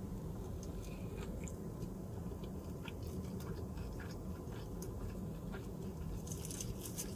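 A person biting into and chewing a sushi burrito with the mouth closed: soft wet chewing clicks over a steady low hum, with a run of sharper clicks near the end.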